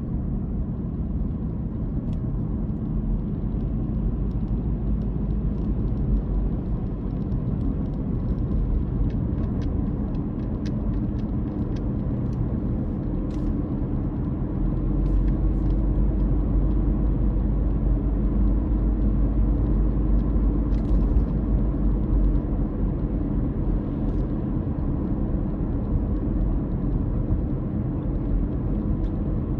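A car driving, its motor droning steadily over low road rumble. It grows a little louder through the middle.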